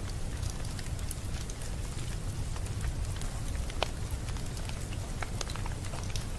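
Fireplace fire crackling: irregular sharp pops and ticks over a low, steady rumble.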